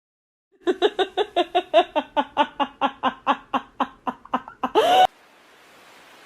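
A person laughing in a long, even run of 'ha' pulses, about five or six a second, ending in a louder, higher burst that cuts off suddenly; a faint hiss follows.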